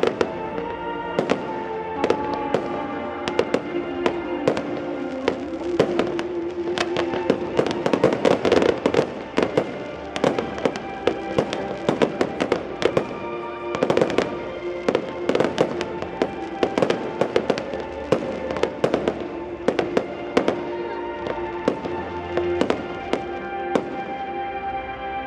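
Fireworks display going off: a rapid, continuous run of bangs and crackles, densest in the middle, with music playing underneath.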